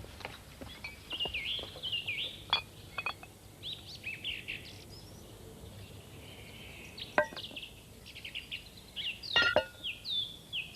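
Garden birds singing and calling: a busy mix of quick high chirps and short falling whistles, with a few sharp ticking notes.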